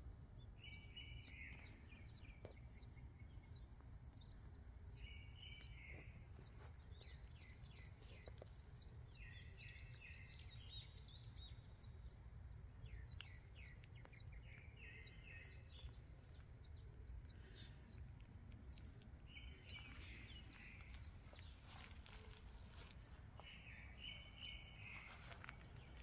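Faint outdoor birdsong: one bird repeats a short, roughly one-second phrase about every four to five seconds, among thin high chirps from other birds, over a steady low background rumble.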